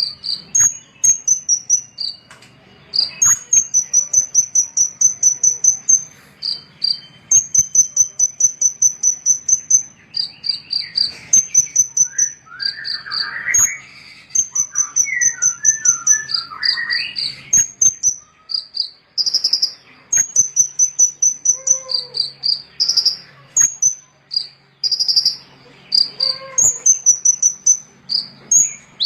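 A small songbird singing: repeated very high, fast trilled phrases of rapid ticking notes, each about a second or two long with short gaps between. Some lower chirps come in around the middle.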